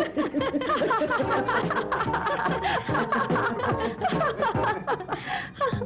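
Cartoon characters giggling and laughing in quick, high voices over background music.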